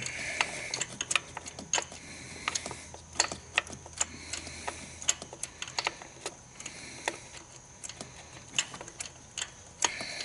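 Irregular light metallic clicks, a few a second, from a deep-well spark plug socket, extensions and swivel joint as the loosened spark plug is turned out by hand.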